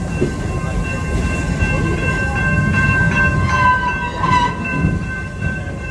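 Amusement park ride train rolling along its track with a low rumble and a steady high-pitched squeal that grows louder and wavers about three and a half to four and a half seconds in.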